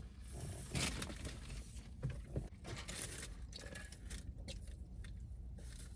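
Rustling and scraping of things being rummaged through in a search for a fork, with several short crackly noises.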